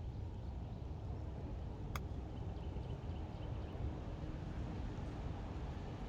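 Steady low outdoor background noise with a single sharp click about two seconds in.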